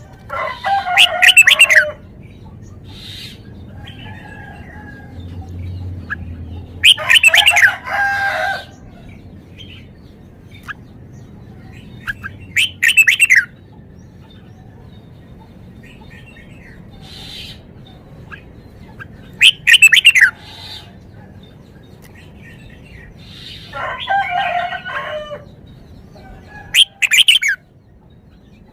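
Red-whiskered bulbul singing: about six short, loud phrases of quick gliding whistled notes, each a second or two long, a few seconds apart.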